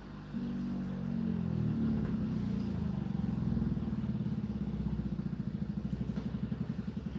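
Whirlpool dishwasher's pump motor starting up and running with a low hum, then a fast, even pulsing flutter in the second half.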